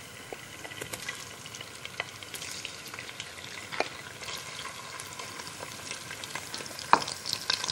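Shrimp sizzling in hot oil with dark-browned onions in a stainless steel pot as a wooden spoon stirs them, with scattered light clicks and a sharper knock about seven seconds in.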